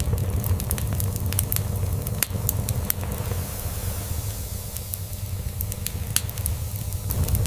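Log fire crackling, with sharp pops scattered irregularly, over a steady low purr from a cat.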